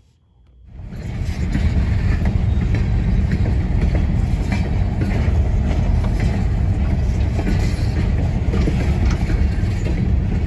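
A loud, steady vehicle rumble that starts suddenly about a second in, heavy in the low end and without any clear pitch.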